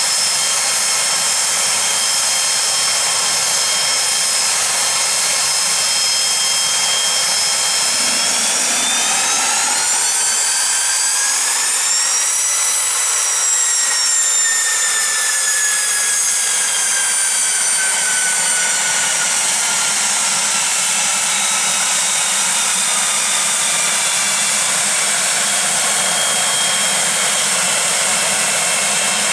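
Pilatus PC-24's Williams FJ44 turbofan jet engines running with a steady high whine. About a third of the way in, the whine climbs in pitch over a few seconds as power comes up, then slowly winds back down to its earlier pitch.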